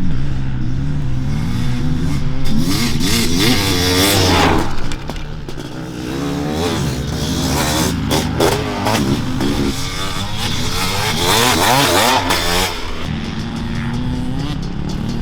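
Honda CR500AF's big two-stroke single-cylinder engine under way, its pitch rising and falling as the throttle is opened and rolled off through the gears. The sound drops back about five seconds in, then climbs again.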